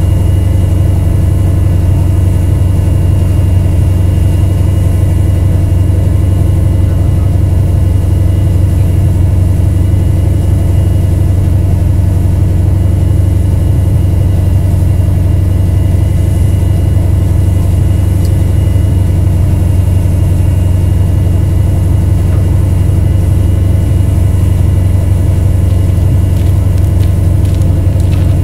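A vehicle engine idling steadily, a constant low hum that does not change.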